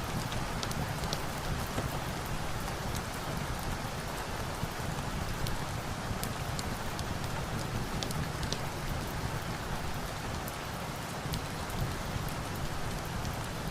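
Steady, even rain falling, with scattered sharp little pops and crackles from a log fire mixed in.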